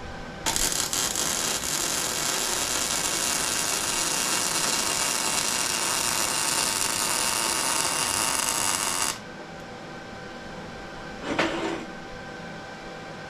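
Plasma cutter cutting steel plate: a loud, even hiss that starts about half a second in and cuts off abruptly after about eight and a half seconds. A brief, shorter burst of sound follows a couple of seconds later.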